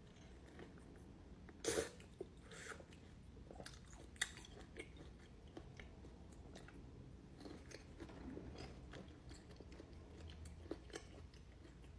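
Close-miked chewing of a large Shine Muscat grape: a sharp bite about two seconds in, then soft chewing with scattered small wet clicks. The flesh is soft and not crunchy.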